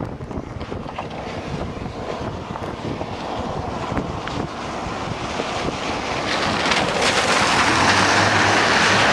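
Rushing wind and vehicle noise, swelling louder a few seconds before the end, with a steady low hum coming in near the end.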